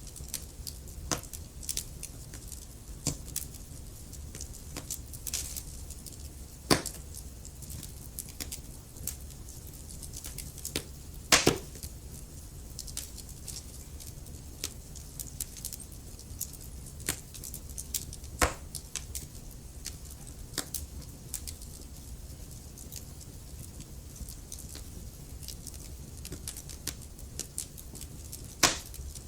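Wood fire crackling in a fireplace: irregular sharp pops and snaps of varying loudness over a low steady rumble, with the loudest, a quick double pop, about eleven seconds in.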